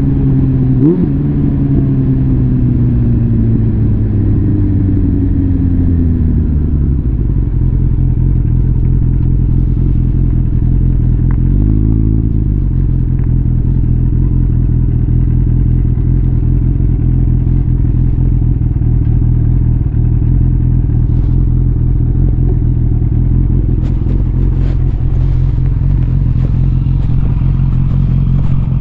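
Suzuki GSF650 Bandit's inline-four engine through a full Arrow exhaust, winding down with falling pitch and a quick throttle blip about a second in. It then settles into a steady idle from about seven seconds, with one short throttle blip around twelve seconds and a few light clicks near the end.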